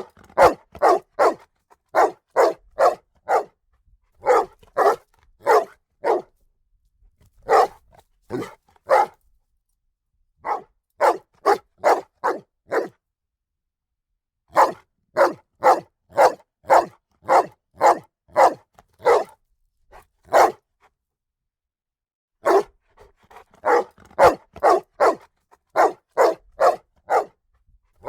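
A dog barking in quick runs of sharp barks, about two or three a second, with pauses of one to two seconds between runs.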